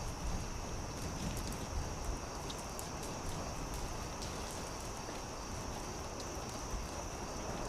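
Campfire crackling, with irregular sharp pops and snaps over a soft steady hiss. A steady high-pitched insect chorus runs underneath.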